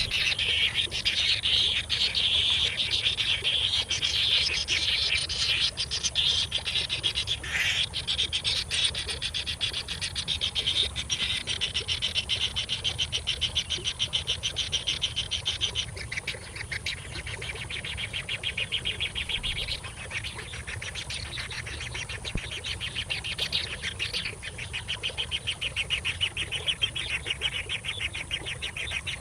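Nestling birds chirping in a fast, continuous pulsing chatter, the begging calls of baby birds wanting food; it gets a little softer about halfway through.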